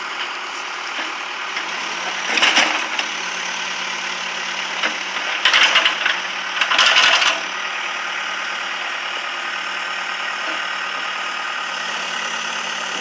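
An engine running steadily at idle. Three short bursts of hiss-like noise cut across it, one a couple of seconds in and two close together near the middle.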